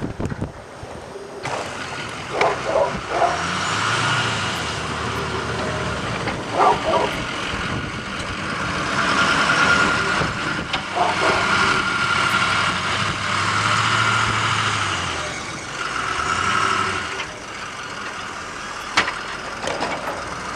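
A large motor vehicle, likely a truck, running and moving through the street, its sound swelling and fading several times, with a few short squeaks.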